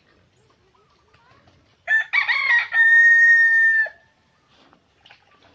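A native-chicken rooster crowing once, about two seconds in: a choppy, broken start, then a long held note that cuts off about two seconds later.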